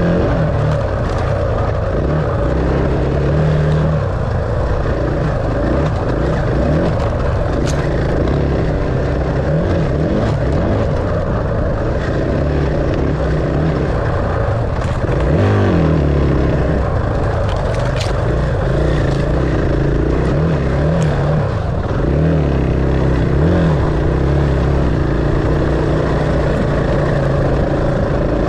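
Dirt bike engine running continuously, its pitch rising and falling as the throttle is worked, with a few sharp clicks.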